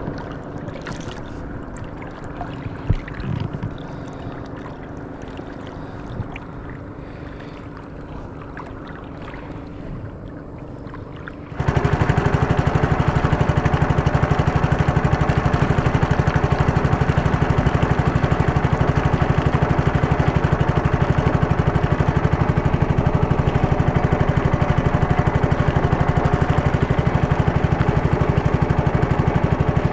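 Water trickling and lapping around a small boat, with a few knocks, then about twelve seconds in a small boat engine comes in suddenly and runs loud and steady with a fast, even beat.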